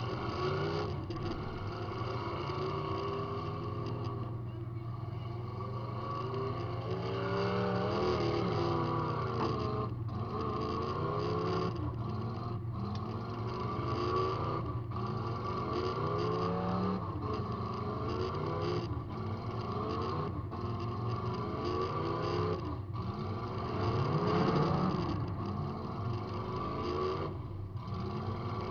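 Demolition derby car's engine revving up and falling back again and again as it is driven, heard from inside the car, with a steady low drone underneath and several brief dropouts.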